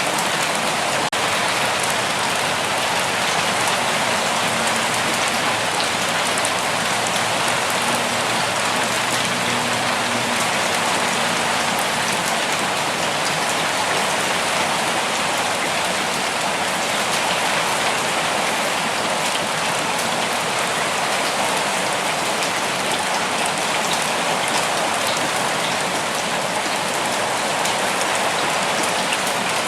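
Steady rain falling on a forest, an even dense hiss of many drops pattering on leaves and ground.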